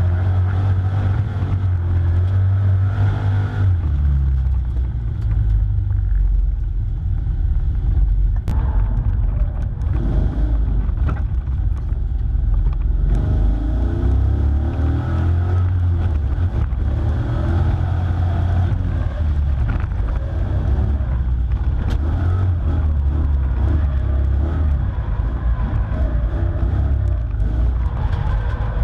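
LS2 V8 engine of a Toyota Tacoma X-Runner drift truck running hard, its revs rising and falling repeatedly.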